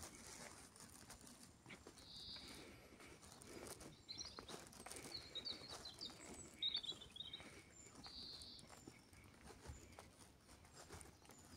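Small birds chirping faintly, with short bursts of chirps every second or two.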